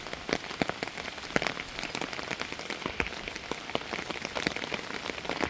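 Steady rain falling, with many separate drops ticking sharply close by over the hiss.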